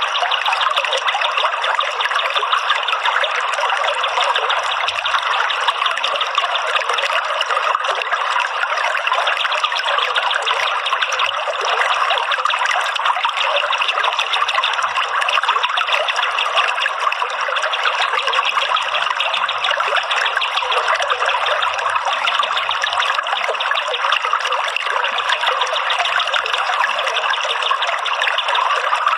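Steady trickling of running water, as on a bird-therapy water track, unchanged throughout.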